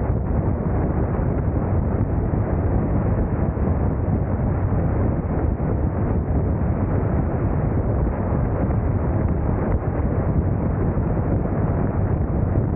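Steady wind rush buffeting the microphone of a camera on a moving motorcycle, strongest in the low range, with no break or change.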